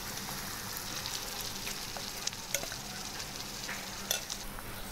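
Marinated chicken pieces sizzling steadily in hot oil with fried onions and tomatoes in a frying pan, with a few sharp crackles, the loudest about four seconds in.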